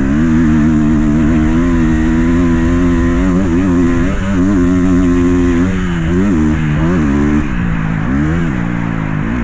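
Dirt bike engine running hard at high revs. Its pitch holds steady for stretches and dips and climbs back several times.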